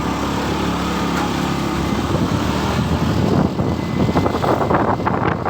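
Motorcycle engine running while riding, with an even engine hum in the first half; wind buffets the microphone more strongly from about four seconds in.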